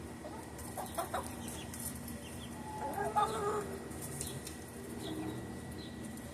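Chickens clucking, with a louder call about three seconds in and a few sharp clicks about a second in.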